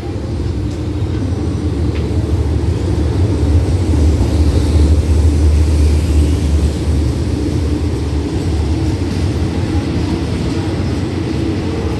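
Diesel locomotive of a passenger train pulling into the station. Its low engine rumble swells to its loudest as it passes about halfway through, then the carriages roll by more quietly.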